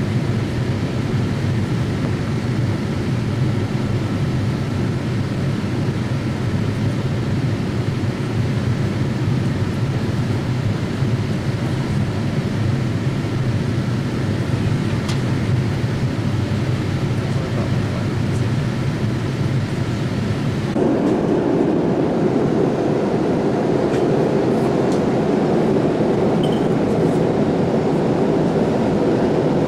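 Steady cabin noise inside a Boeing 787-8 airliner in flight: a low rumble of engines and airflow. About two-thirds of the way through it changes suddenly to a higher, slightly louder rush.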